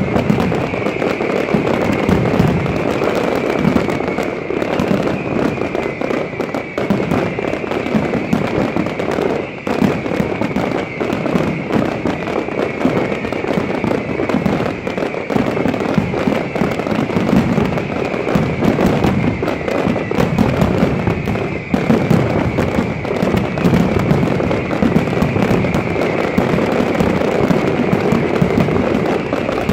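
Large fireworks display going off continuously, a dense stream of bursts and crackling with no pauses.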